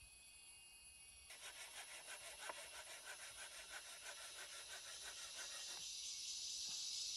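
Forest insects calling: a rapid, evenly pulsing rasping call starts about a second in and stops abruptly near the end, over steady high-pitched insect whines. A louder high drone then swells up as the call ends.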